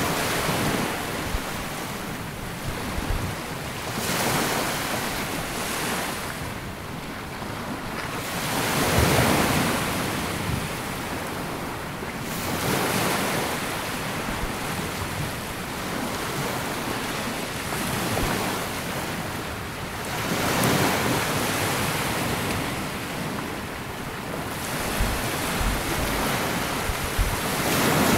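Small waves breaking and washing up a sandy beach, the surf swelling and falling back every few seconds, with some wind buffeting the microphone.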